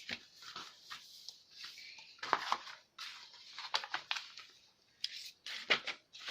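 Paper pattern pieces being handled and moved on a table: irregular rustling and crinkling with a few sharp taps.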